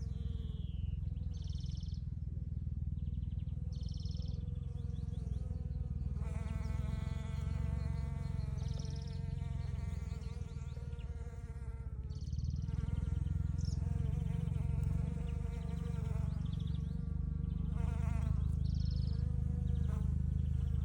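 Honeybees buzzing, the hum growing stronger about six seconds in. A songbird repeats a short high chirping phrase every few seconds over a low steady rumble.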